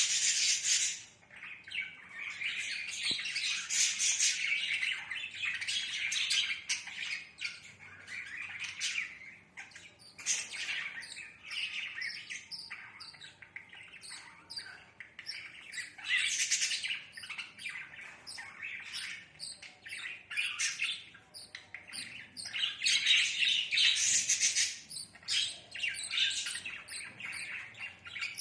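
Budgerigars chirping and chattering in quick, dense calls, with several louder spells that come and go.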